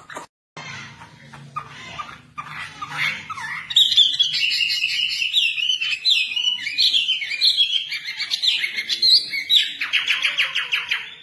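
Wambi songbird singing: a few scattered chirps, then a loud, rapid, varied warbling song that ends in a fast trill near the end.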